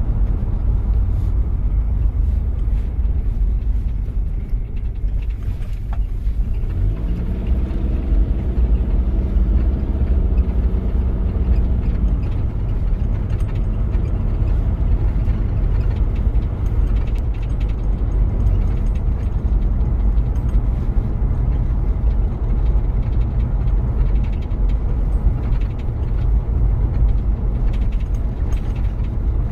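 1993 Toyota Prado's diesel engine running under way, a steady low rumble. About a fifth of the way in, a pitched engine note rises for a few seconds, then fades back into the rumble.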